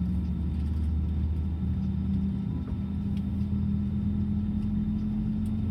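Steady low drone inside an Airbus A320 cabin, with two constant hum tones and a rumble underneath, as the engines idle before takeoff.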